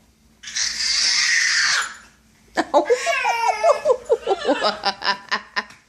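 Laughter: a breathy, hiss-like outburst lasting over a second, then a long run of rhythmic laughing pulses, several a second, that stop just before the end.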